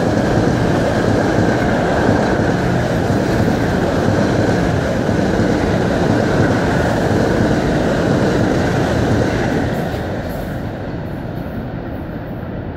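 Metro-North passenger train passing close by: a steady rumble of wheels on rail with a faint, steady high whine. It drops off about ten seconds in as the last car goes by.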